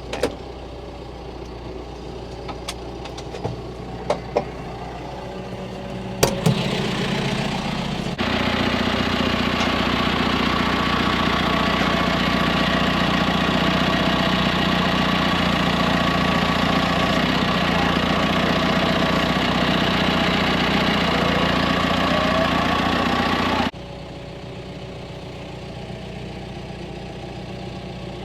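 Farm tractor engine running, with a few sharp knocks and clanks in the first several seconds; about eight seconds in it turns abruptly louder and busier for some fifteen seconds, then drops back just as suddenly to the steadier running.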